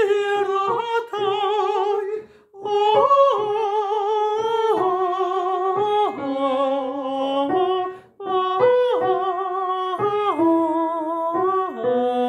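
A single voice singing a slow, plaintive melody in long held notes with vibrato, the phrases broken by two short pauses for breath.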